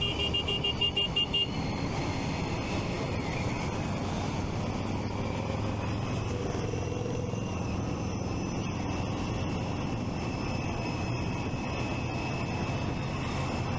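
Steady road-traffic noise heard from a moving motorcycle, with a rapid high-pitched beeping that stops about a second and a half in.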